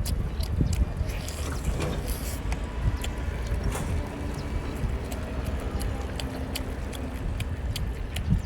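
Eating sounds: wet chewing and mouth clicks, many short sharp ticks over a steady low rumble.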